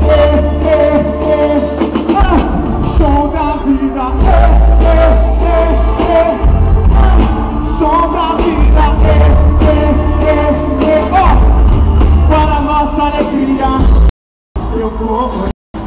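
Live band with singers performing a loud gospel rock song, with a heavy bass line under the sung melody. The sound cuts out completely twice near the end, briefly each time.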